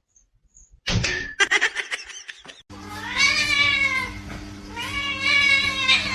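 A cat meowing twice, each a long drawn-out call that rises and then falls, over a steady hum. Before the meows there is a brief clatter of knocks and rattles.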